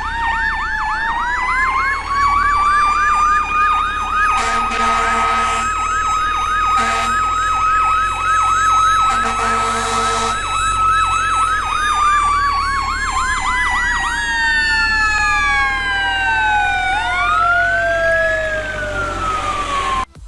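Emergency vehicle sirens: a fast yelp siren warbling about three times a second over a steady wail tone, with three horn blasts in the middle. After about 14 seconds the yelp stops and slow wailing sweeps fall and rise until the sound cuts off.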